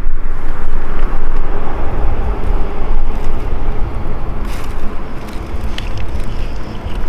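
Wood campfire burning with a few sharp crackles in the second half, under a heavy low rumble of wind buffeting the microphone.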